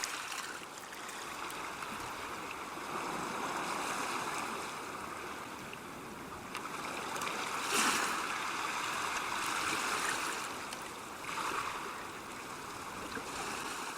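Steady outdoor rushing noise that swells briefly about eight seconds in.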